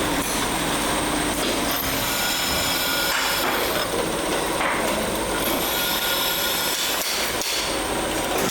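Ceiling fan factory workshop noise: a steady din of machinery with tool knocks and clatter, a few sharper knocks near the end.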